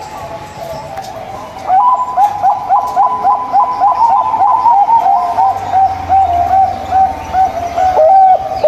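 Zebra dove (perkutut) cooing: after a quieter opening second and a half, a fast run of short, hooked notes, about three to four a second, repeated through the rest.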